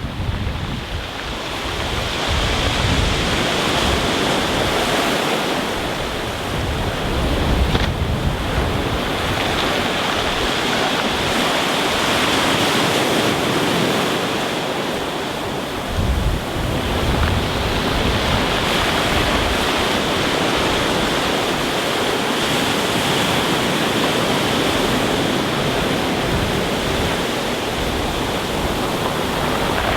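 Rough sea breaking and washing over a stony beach, a continuous rushing hiss that swells and eases with each wave. Wind buffets the microphone now and then, with low rumbles near the start and about halfway through.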